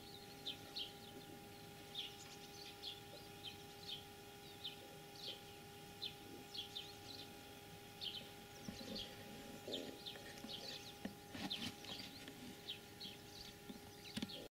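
Birds calling in open country: a string of short, high chirping calls about twice a second, with a few lower calls mixed in during the second half.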